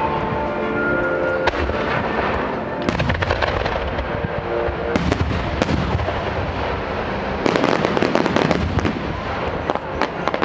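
Aerial firework shells bursting one after another, heard from close to the launch site: continuous booms with a dense crackle of bursting stars about seven and a half seconds in.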